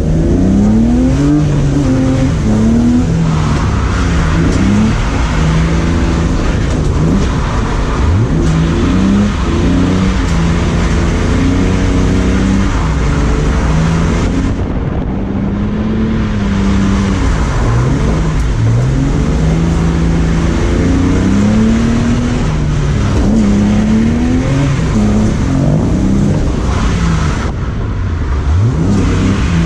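BMW E36's engine revving up and down over and over as the car is drifted on a wet road, with brief lifts off the throttle about halfway through and near the end. A steady rush of wind and rain carries over it, coming in through the car's missing windows.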